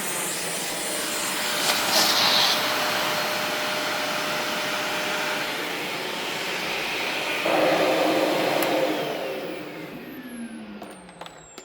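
Karcher CV 300 commercial upright vacuum running steadily. It gets louder about seven and a half seconds in, then is switched off, its motor winding down with a falling whine over the last few seconds.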